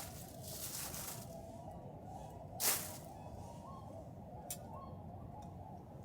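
Distant swans calling faintly over a campfire, with one sharp hissing pop from the fire about two and a half seconds in and a smaller click a couple of seconds later.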